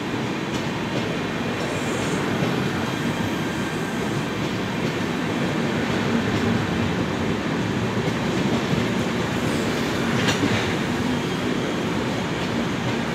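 Passenger coaches of an express train rolling past along a platform: a steady rumble and clatter of wheels on rail, with one brief sharp noise about ten seconds in.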